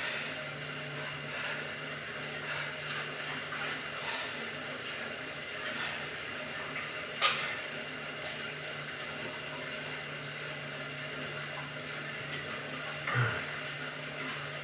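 Stationary exercise bike pedalled at a steady spin, its flywheel giving a steady whirring hum. A single sharp click comes about seven seconds in.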